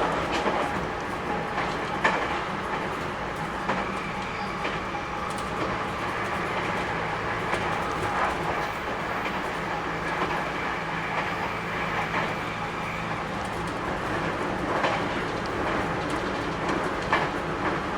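JR Kyushu 811 series electric train running, heard on board: steady rolling noise with an occasional rail-joint clack. A faint, steady high whine comes in for a few seconds in the middle.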